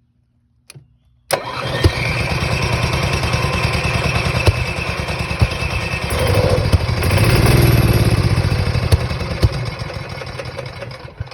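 Onan generator engine cranking on its electric starter for about ten seconds with a fast, even chugging, without catching: the generator will not start. It cuts in suddenly after a faint click, swells in the middle and dies away near the end.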